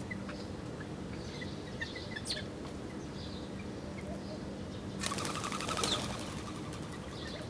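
Small birds chirping in short, high notes. About five seconds in, a sudden burst of rapid wing flapping lasts about two seconds as a bird takes off. A steady low hum runs underneath.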